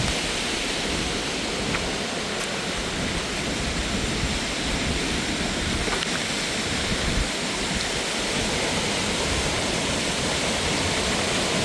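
Steady rush of mountain water pouring over rocks, an even hiss and roar with no pauses.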